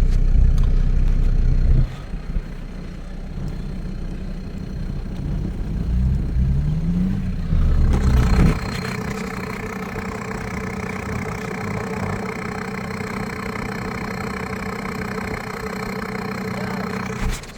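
Off-road 4x4 engine running, loud at first, rising in revs and dropping back around six to eight seconds in, then running steadily.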